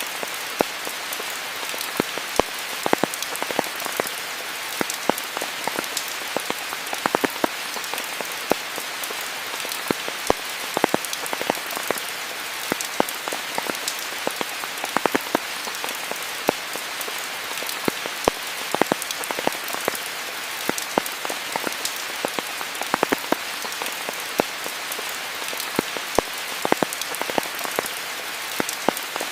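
Steady rain falling in a rainforest, with a constant hiss and many separate drops ticking sharply on near surfaces such as leaves.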